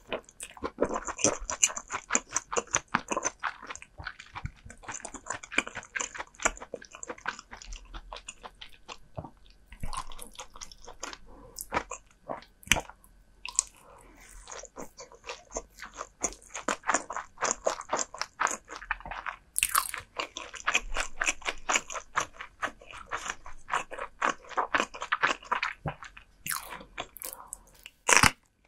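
Close-miked chewing of crunchy food, mouthful after mouthful: dense runs of crisp crunches broken by a few brief pauses.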